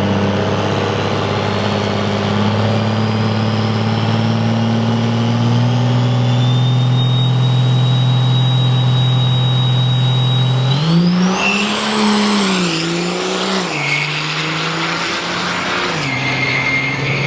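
Pro Mod drag racer making a solo bye run. The engine holds a steady note for about ten seconds, then launches: the pitch jumps up with a high whine over it, and dips and climbs again two or three times as it shifts gears going down the track.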